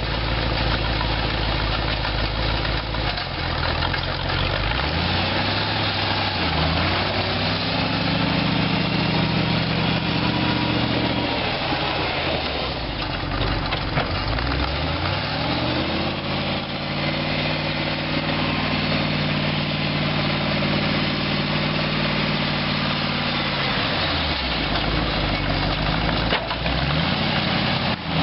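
Chrysler 318 V8 engine of a homemade tractor revving up and down: it climbs and holds higher revs for several seconds at a time, twice, dropping back toward idle in between and starting to climb again near the end.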